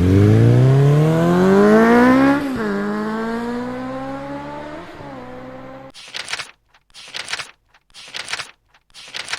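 Sport motorcycle engine accelerating hard, climbing in pitch and shifting up twice, at about two and a half seconds and again near five seconds, while fading away. From about six seconds it gives way to a rhythmic hissing beat, roughly one hit a second.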